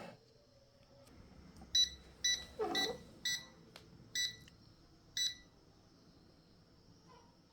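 Six short electronic beeps at uneven spacing, like keypad presses on the balancing machine's control panel, with a dull knock under the third beep.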